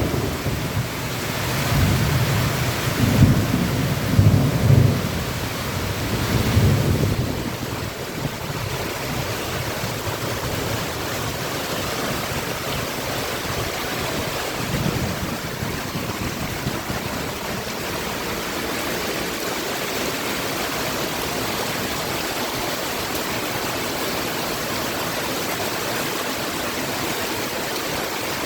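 Heavy rain falling steadily, with low rolls of thunder rumbling through the first several seconds and once more about halfway through.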